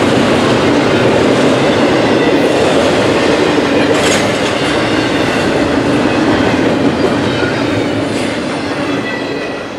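Double-stack intermodal freight train passing close at speed: a steady rumble and rattle of its well cars and wheels on the rail, with a couple of sharp clanks. The sound fades near the end as the last car goes by.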